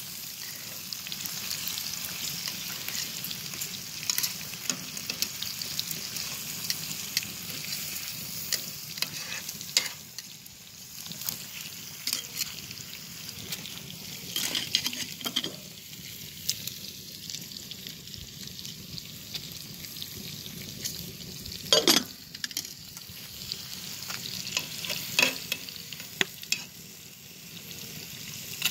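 Bacon and mushrooms sizzling in cast iron pans over an open fire: a steady hiss with scattered crackles and pops. A single sharp knock comes about two thirds of the way through, and metal tongs stir the mushrooms near the end.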